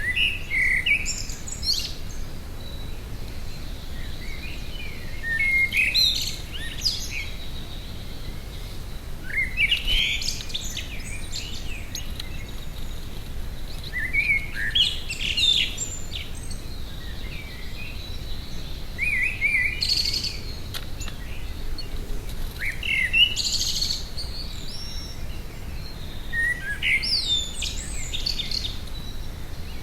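A small garden songbird singing short phrases of quick, varied high notes, about seven phrases a few seconds apart, over a faint steady low background noise.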